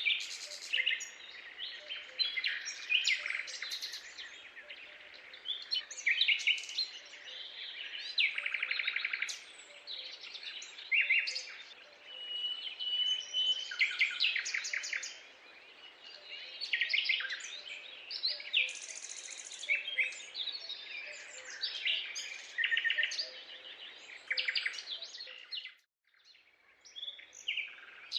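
A chorus of many birds calling over one another, with chirps, whistles and fast trills, and one longer held whistle near the middle. It cuts out briefly about two seconds before the end.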